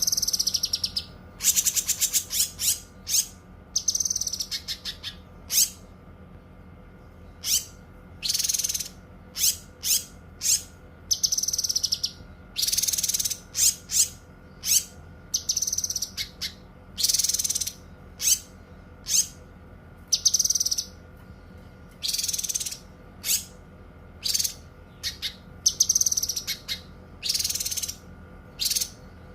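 Cucak kinoi singing: a string of short, high, bright phrases, some of them fast trills, one after another with brief pauses between. A faint steady hum runs underneath.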